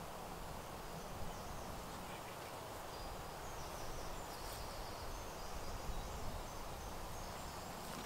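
Steady woodland background hiss with faint, short, high-pitched bird calls starting about two seconds in.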